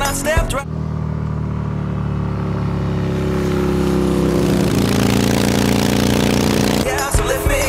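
Motorcycle engine running and slowly building, rising a little in pitch and growing louder, then cutting off suddenly. A song with singing is heard at the very start and returns near the end.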